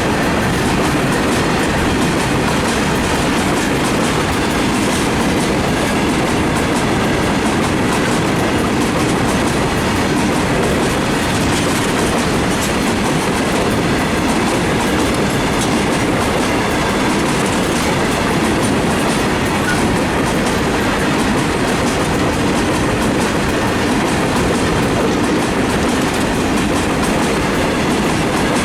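Empty freight wagons of a long goods train rolling past at steady speed: continuous wheel-on-rail rumble with the clickety-clack of wheels over rail joints.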